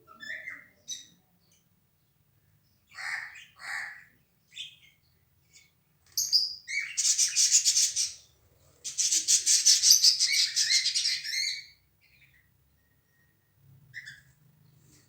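Lovebirds calling: a few short, sharp chirps, then two long bursts of rapid, rattling chatter a few seconds each, the loudest part.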